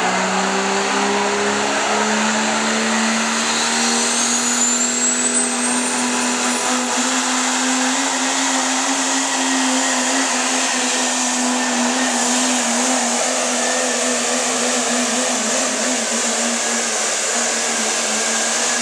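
Turbocharged diesel pickup truck engine at full throttle on a truck-pull run, held at high revs with its pitch slowly climbing and then holding. A high whistle rises steeply in pitch a few seconds in.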